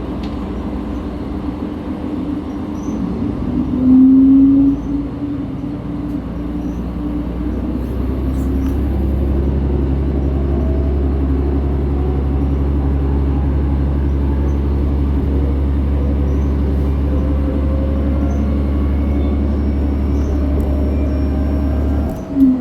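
Diesel railcar engine heard from inside the carriage: running steadily, then working harder from about six seconds in, with a strong low drone and slowly rising engine tones as the train pulls away. A brief loud tone sounds about four seconds in.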